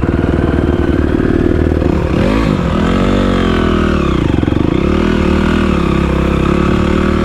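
Honda CRF250 four-stroke single-cylinder dirt bike engine running under load. Its revs hold steady, then from about two seconds in drop and rise again a few times as the throttle is rolled off and back on.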